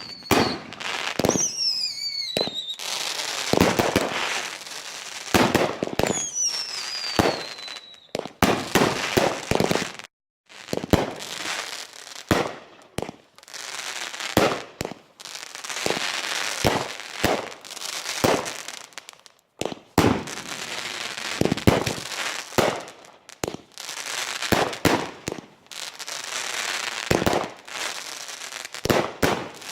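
Fireworks going off in quick succession: repeated bangs and crackling. A couple of high whistles fall in pitch in the first eight seconds or so. The sound drops out completely for a moment just after ten seconds.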